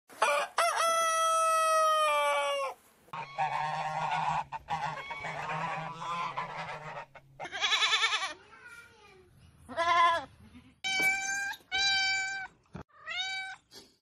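A rooster crowing once in a long call that falls at the end, then bees buzzing for a few seconds, then goats bleating twice with a wavering voice, and near the end a cat meowing three times, the last meow rising.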